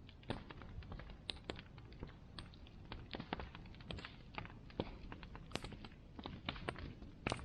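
Bonfire burning, with irregular crackles and sharp pops of wood over a low steady rush, a few pops louder than the rest.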